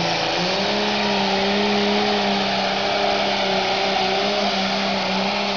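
Fiat 1000 pulling tractor's engine running at full throttle, dragging the weight sled down the track. It gives a loud, steady howl whose pitch steps up slightly just after the start and then holds.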